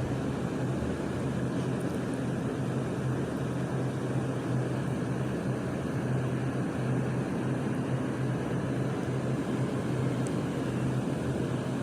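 Garbage truck's diesel engine running steadily, a low, even drone with a constant hum and no dumpster banging.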